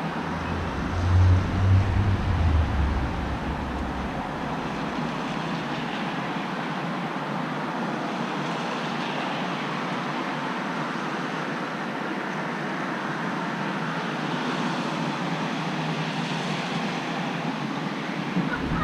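Steady hiss of rain and road traffic, with a louder low rumble about one to three seconds in.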